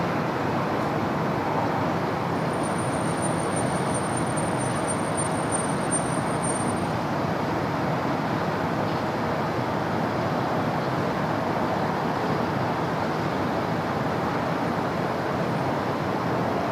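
Steady city road traffic: a continuous rush of passing cars and heavier vehicles with no single one standing out. A thin, high-pitched whine sounds faintly for a few seconds near the start.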